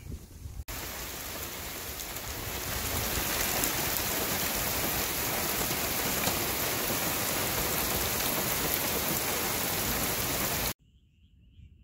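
Heavy rain falling steadily in a dense hiss, coming in suddenly under a second in and swelling a little soon after. Near the end it cuts off abruptly, leaving only a faint high chirping.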